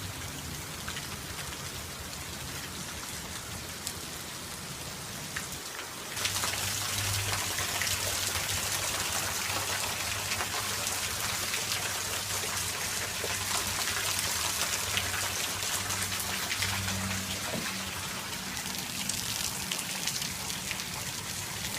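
Steady rain falling, a dense patter of drops. About six seconds in it suddenly gets louder and hissier and stays heavier.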